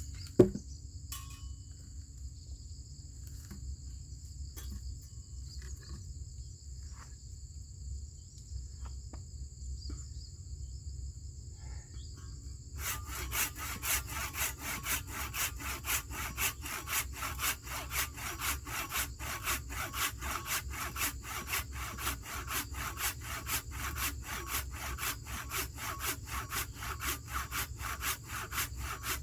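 A sharp knock near the start, then steady insect buzzing. About halfway through, a hand saw starts cutting wood in regular back-and-forth strokes, about two a second.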